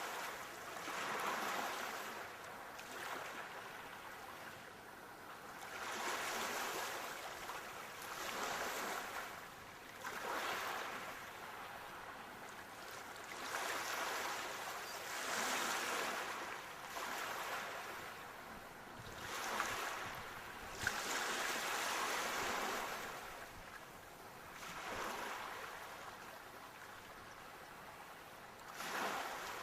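Sea waves washing ashore, each swell of surf rising and falling every few seconds in a steady rhythm.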